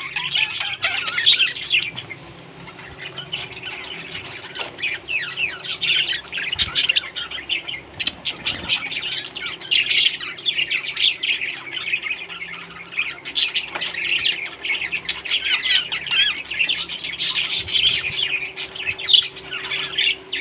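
Parrots chirping and chattering in a continuous stream of rapid, high calls, easing off briefly about two seconds in before picking up again. A faint steady hum runs underneath.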